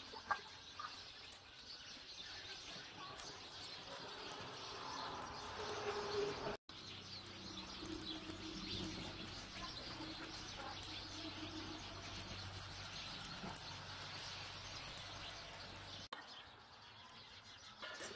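Birds chirping over a steady outdoor hiss, with scattered faint clicks. The sound cuts out for an instant about six and a half seconds in.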